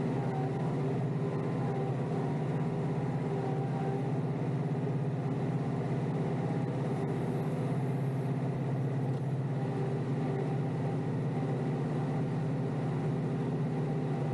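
Kioti DK5320SE tractor's diesel engine running at a steady speed, a constant even drone.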